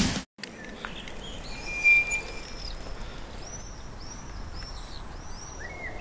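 Small birds chirping again and again over a faint, even outdoor background noise, with one brief, steady high whistle about two seconds in. Music cuts off at the very start.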